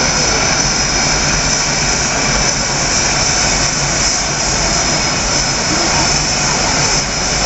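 F/A-18 Hornet jet engines running steadily, with a constant high whine over a broad rush of noise.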